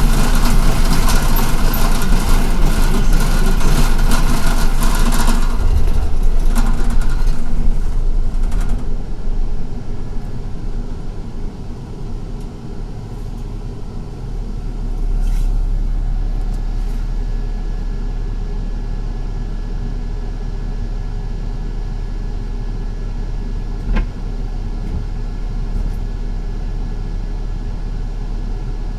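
City bus heard from inside while riding: a loud rushing noise for the first five or six seconds fades off, leaving a steady low rumble of the running bus. A single sharp click comes about 24 seconds in.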